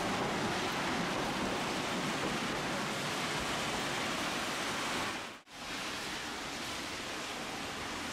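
Heavy rain heard from a Tosaden streetcar: a steady hiss that cuts out for a moment about five and a half seconds in.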